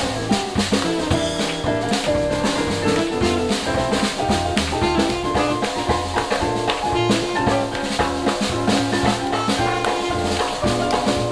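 Live jazz band playing: drum kit keeping a steady swinging beat under bass and melodic instruments.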